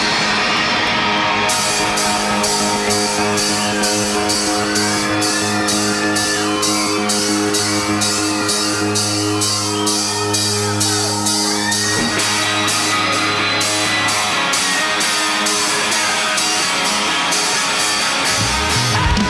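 Live rock band playing an instrumental passage: held, sustained chords with a quick, even beat ticking on top, and a wandering higher melody line through the middle.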